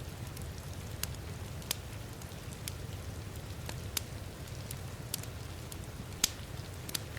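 Wood fire crackling in a fireplace: irregular sharp pops about once a second, the loudest about six seconds in. Under it runs a steady low rumble and hiss of heavy rain.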